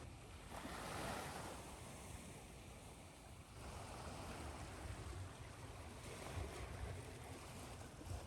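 Ocean waves washing in and drawing back, a swell about a second in and another around four seconds, over a steady white-noise hiss.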